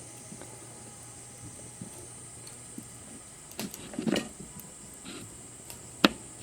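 Light knocks and rustling from handling things, with one sharp click near the end, over a steady high hiss.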